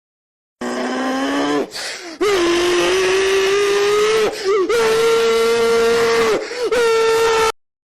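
A high-revving engine held at a steady high pitch in long stretches, with brief dips and pick-ups about every two seconds, then cut off sharply.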